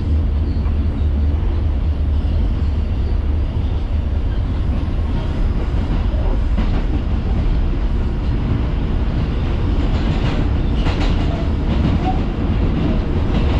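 Inside an R142 subway car running at speed through the tunnel: a steady, loud, low rumble of steel wheels on the rails, with a patch of sharp clicks about ten seconds in as the wheels run over rail joints or track work.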